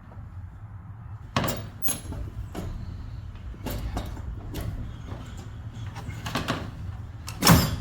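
Metal clanks and scraping knocks of tools and parts being worked loose in a car's engine bay, with the loudest knock near the end, over a steady low hum.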